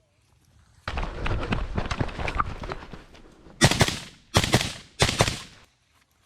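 Suppressed AR-15 carbine, fired through a SilencerCo Hybrid 46, shooting three times about two-thirds of a second apart, each shot trailing off briefly. Before the shots comes a couple of seconds of dense clattering and rustling.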